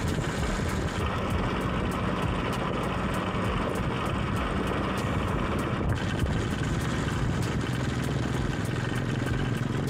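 Steady wind and road noise from riding an electric three-wheeled mini bike, with a faint low hum underneath and many light ticks.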